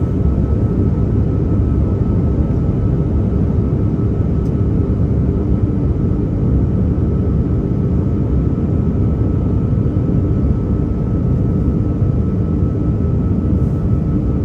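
Steady roar of an Airbus A330-300's engines and airflow heard inside the passenger cabin in flight, a constant low rumble with a faint steady whine above it.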